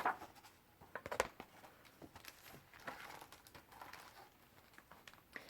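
Faint rustling of paper and a few soft clicks as a picture book is handled and opened, with sharper clicks near the start and about a second in.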